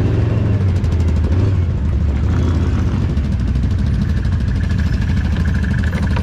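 Off-road vehicle engine running steadily at an even pitch, with a thin steady whine joining about four seconds in.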